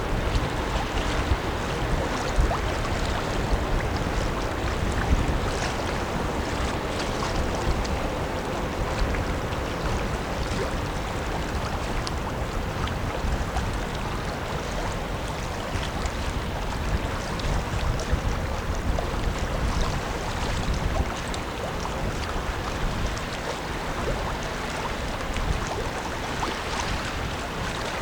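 Wind rumbling on the microphone over the wash of river water, with a faint steady hum from the passing oil/chemical tanker Algoma Hansa that fades out about a third of the way in.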